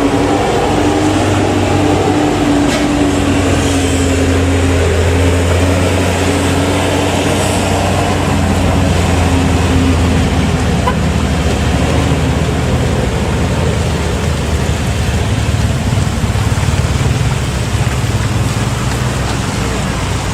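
A road vehicle's engine running steadily with a low drone that wavers slightly in pitch, over road noise.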